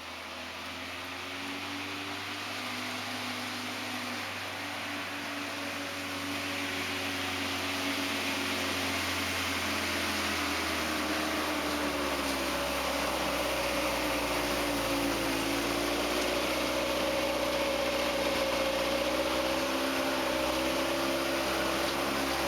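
Homebuilt compact tractor's engine running, its pitch wavering a little and the sound growing gradually louder.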